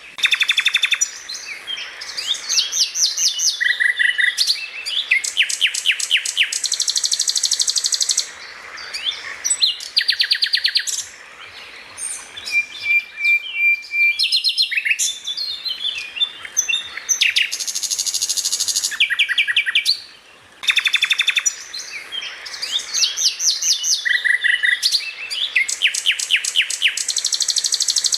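Greater green leafbird (cucak ijo) singing a loud, fast stream of chirps and rapid machine-gun-like trills, the 'tembakan' song used as a masteran recording. The same passage repeats about twenty seconds on, as in a looped recording.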